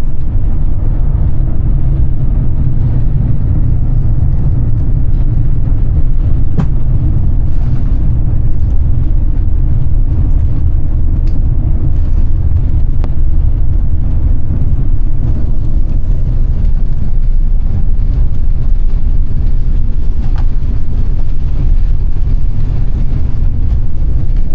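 Airbus A350-900 airliner cabin noise: a loud, steady low rumble of the aircraft in motion, heard from inside the cabin.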